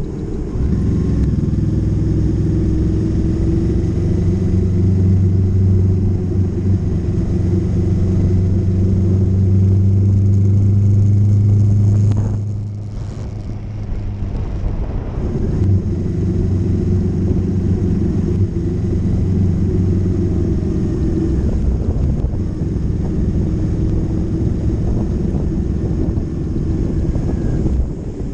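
Motorcycle engine running under way at steady throttle. About twelve seconds in, the throttle is briefly backed off and the engine note drops for a couple of seconds before pulling steadily again.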